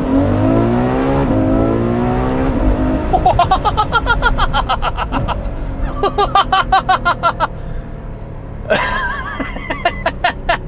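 Ferrari F12 Berlinetta's 6.3-litre V12 at full throttle from a standing start, its pitch climbing steeply through the gears. After that it goes through several bursts of rapid pulsing with sharp crackles, typical of downshifts and exhaust pops on the overrun.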